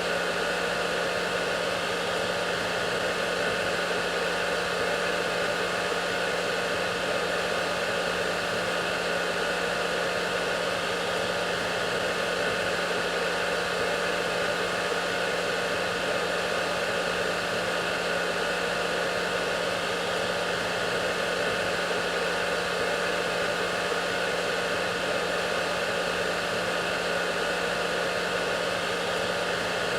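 Hair dryer running steadily: an even rush of blown air with a constant motor hum and a thin whine, unchanging throughout.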